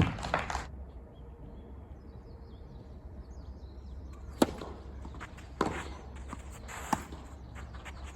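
Tennis ball being struck and bouncing in a rally: a couple of sharp pops right at the start, then, after a quiet stretch, three sharp pops roughly a second and a quarter apart in the second half, the first and last the loudest.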